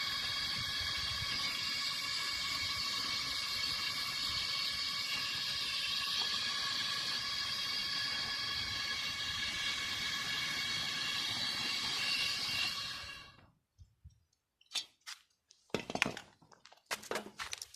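A power tool running steadily with a high whine over a hiss, stopping about 13 seconds in, followed by several short clinks and knocks.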